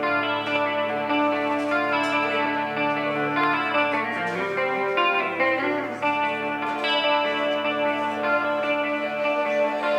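Live instrumental music: guitar chords ringing out through effects over steady low notes, opening a new song.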